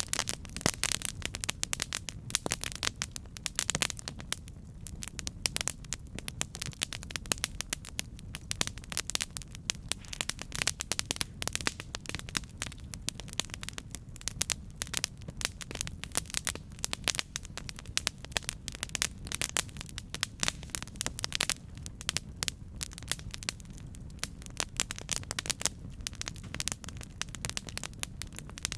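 Campfire burning with constant sharp crackles and pops over a steady low rumble of the flames.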